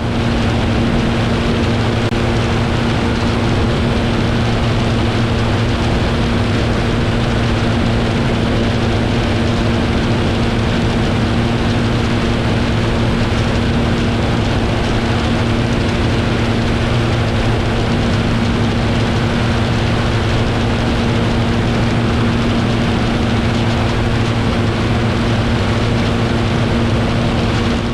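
Propeller aeroplane in flight: a steady engine and propeller drone with a constant low hum.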